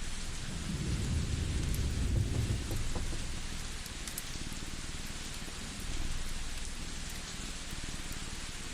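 A cat purring close up, its low, finely pulsing rumble swelling and fading in slow breaths, loudest about a second in and again around six seconds. Beneath it runs a steady rain-like hiss with scattered small crackles from a wood fire.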